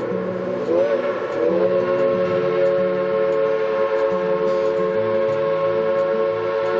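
Narrow-gauge steam locomotive's chime whistle blown in one long, sustained blast, its chord sagging in pitch and recovering about a second in.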